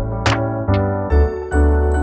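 Background music: an electronic beat with a sharp drum hit, then held electric-piano chords with bright chiming high notes from about a second in.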